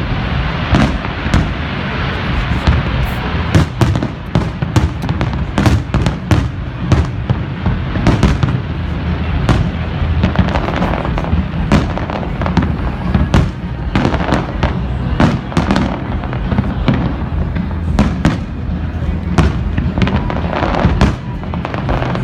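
Large aerial fireworks display going off continuously, with rapid sharp bangs and crackle several times a second over a steady rumble.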